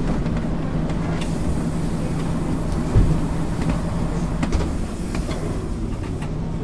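A 1999 MAN ÜL 353 intercity bus under way, its diesel engine and running gear giving a steady drone with a constant low hum. There is a single knock about three seconds in.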